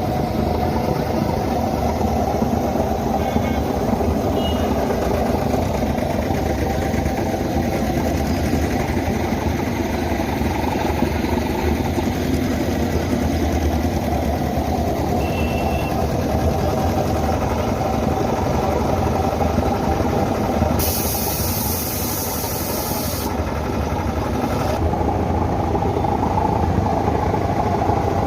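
Heavy engine idling steadily, with a hiss of about two seconds about two-thirds of the way through.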